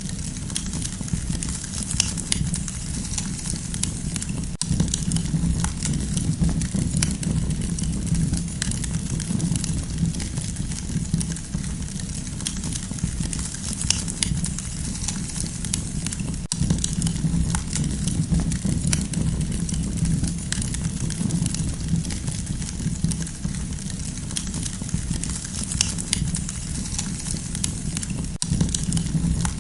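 Campfire crackling: frequent sharp snaps and pops over a steady low rumble.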